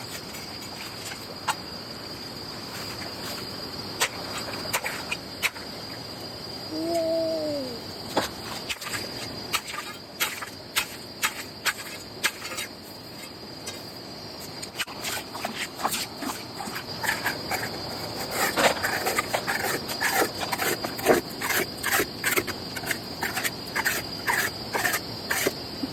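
Crickets keep up a steady high-pitched trill throughout, with a series of sharp taps and knocks over it: sparse at first, about one a second for a few seconds, then quicker and more irregular in the second half. A short, falling, voice-like hum comes about seven seconds in.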